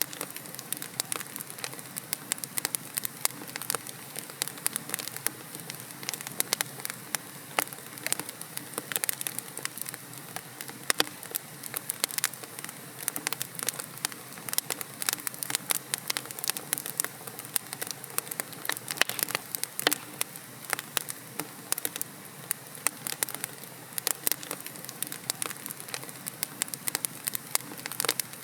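Wood logs burning in a fireplace, crackling continuously: many sharp, irregular pops and snaps over a steady soft hiss.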